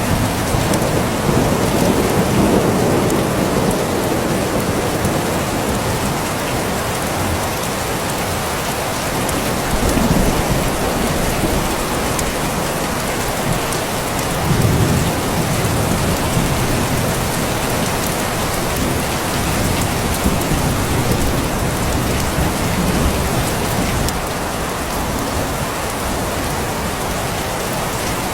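Steady rain falling, with low rumbles that swell and fade several times.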